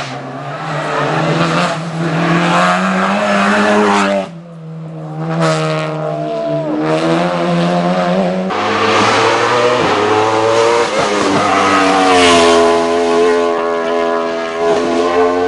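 Race car engine at full throttle on a hill climb, its note climbing and dropping as it revs. The engine note falls abruptly about four seconds in and shifts again about eight and a half seconds in.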